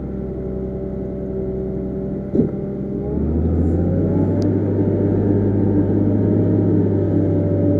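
Diesel engine of heavy earthmoving machinery running steadily, with a single short knock about two and a half seconds in. The engine then revs up slightly and runs louder.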